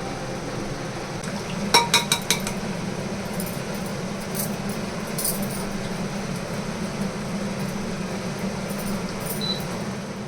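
Kitchenware clinking: a quick run of four or five sharp, ringing clinks about two seconds in, then a few lighter knocks, over a steady low hum.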